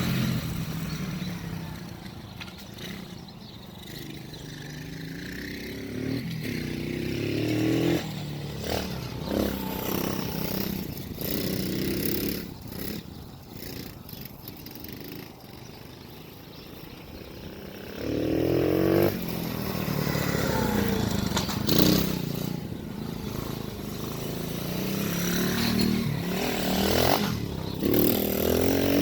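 A 110cc semi-automatic pit bike's single-cylinder four-stroke engine being ridden, revving up in pitch several times (at the start, about 8 seconds in, around 18 seconds and near the end) and dropping back to a quieter, lower run in between.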